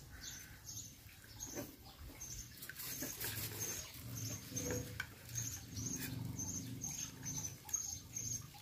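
Short, high chirps repeating about twice a second, from a small bird, over a low steady background hum.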